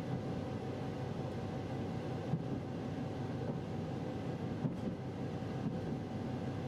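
KiHa 261 series diesel express railcar running, heard from inside the carriage: a steady low rumble of engine and wheels on rail, with a faint steady whine and a couple of light knocks.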